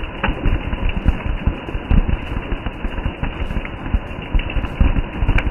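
Steady rain falling on trees and broad-leafed undergrowth: an even hiss over a dense low rumble, with a few sharper drop ticks.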